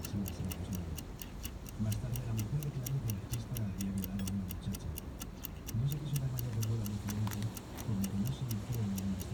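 An insect calling in an even, rapid pulse of dry clicks, about five a second, with a low intermittent murmur underneath.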